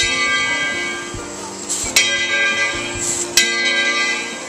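Steam locomotive bell swinging and ringing, struck three times about a second and a half apart, each strike ringing on.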